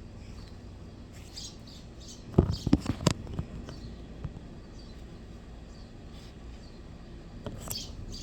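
A short cluster of knocks and rubs about two and a half seconds in, from the phone being handled and set down close to the ground, over a faint background with small high bird chirps now and then.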